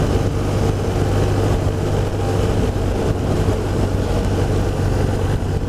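BMW R1200RT's boxer-twin engine running at a steady cruise, its even drone mixed with steady wind and road noise.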